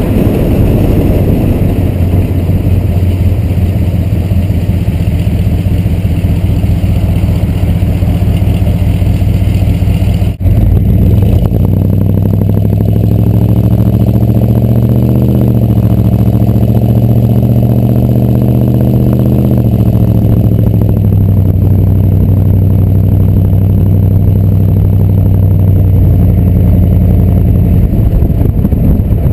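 Chevrolet 6.2 L Detroit diesel V8 in a 1986 C30 dually, running loud through straight-piped stacks. About ten seconds in the sound briefly drops out; then the engine note climbs as it accelerates and falls back after several seconds to a steady run.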